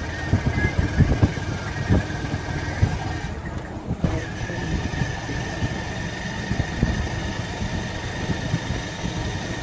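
Motorcycle riding along, its engine running steadily under road and wind rumble, with a thin steady whine that cuts out briefly a little over three seconds in.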